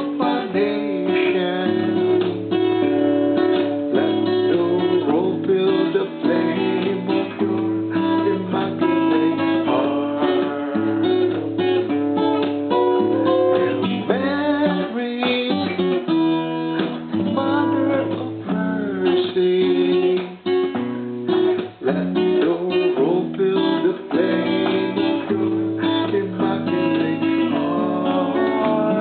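Acoustic guitar strummed and picked, playing a hymn tune.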